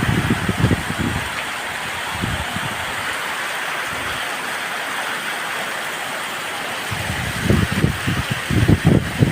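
Heavy rain falling steadily, with strong wind gusts buffeting the microphone in the first second or so and again over the last couple of seconds.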